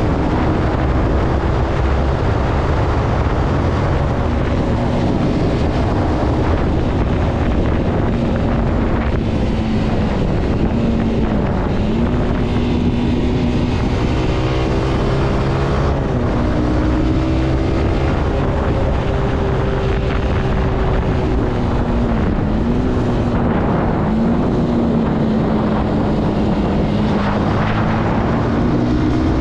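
Zontes C125 motorcycle engine running on the move, its pitch dipping and climbing back several times as the revs fall and rise. Wind rushes over the microphone throughout.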